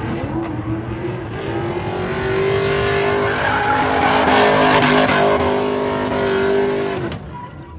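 A pickup truck's 5.3-litre V8 is held at high revs in a burnout while its tyres spin and squeal. The engine note holds steady for several seconds, then drops off near the end.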